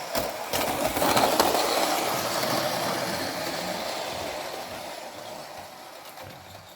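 Hornby Class 47 model diesel locomotive running along the layout track, a steady rolling and motor noise with a couple of clicks near the start, growing fainter towards the end.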